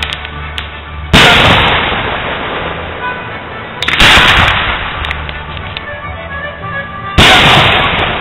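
Fireworks display: three big aerial shells bursting about three seconds apart, each a sudden loud bang that rumbles and fades slowly with some crackle.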